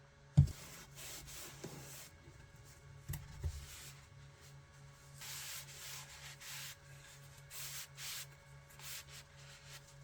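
A sharp knock about half a second in and two lighter knocks around three seconds, then a run of short hand-sanding strokes, the abrasive rubbing back and forth in separate passes.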